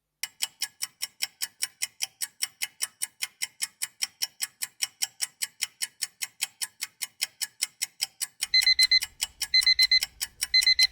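Clock ticking fast and evenly, about four ticks a second, as a countdown timer for answering. Near the end an alarm clock beeps three times, about a second apart, signalling that time is up.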